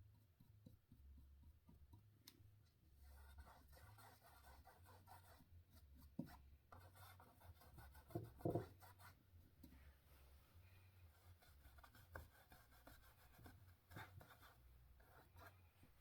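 Faint brush strokes rubbing and scratching on canvas as paint is blended, in several stretches with a few light taps of the brush.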